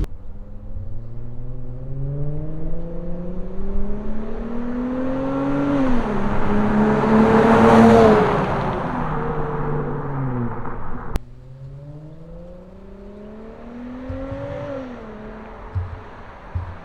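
Dodge Challenger with a new aftermarket exhaust accelerating. The engine note climbs, drops at a gear change about six seconds in, then swells to its loudest about two seconds later and falls away. After a sudden cut, a second, quieter run climbs and shifts again.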